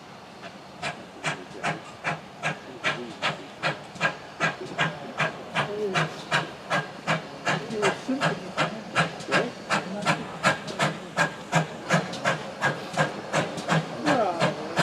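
GWR 57xx-class pannier tank locomotive starting away under steam, its chuffs beginning about a second in and coming evenly at about three a second, getting louder and slightly quicker as it picks up speed.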